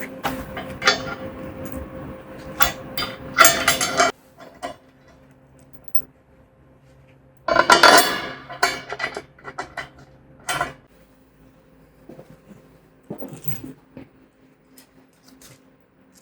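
Metal clanks and rattles from steel parts and tools being handled, in irregular bursts with a loud longer clatter about halfway through.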